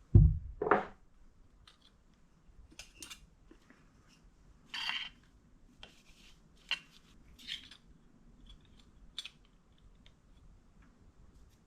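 Metal parts and hand tools handled in a workshop: two heavy knocks at the start, then scattered light clicks and clinks with a short scrape about five seconds in.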